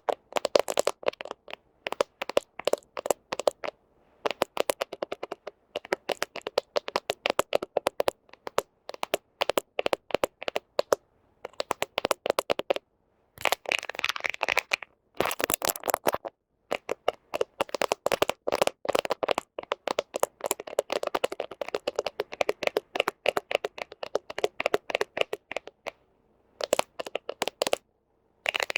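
Fingernails tapping and scratching rapidly on a smartphone camera right at the microphone, a close, crisp clicking in runs of quick strokes broken by short pauses.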